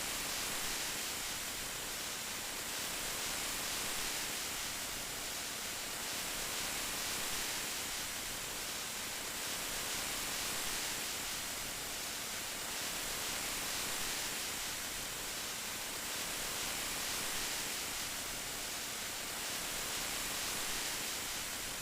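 Steady rain: an even hiss, strongest in the high range, swelling gently in loudness every few seconds.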